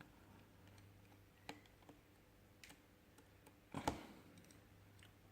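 Near silence broken by a few faint, sharp clicks of a small screwdriver working the tiny screws of a phone's frame. The loudest click comes about four seconds in.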